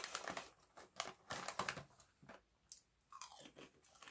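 Crisp, light shrimp chips being chewed: a run of irregular crunches, dense for about two seconds and then thinning out to a few.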